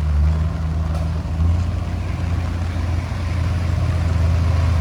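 Diesel engine of heavy earthmoving equipment running steadily under work, a deep low rumble.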